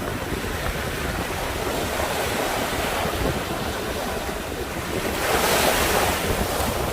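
Sea surf: waves washing steadily onto the shore, with one wave breaking louder about five seconds in. Wind buffets the microphone with a low rumble.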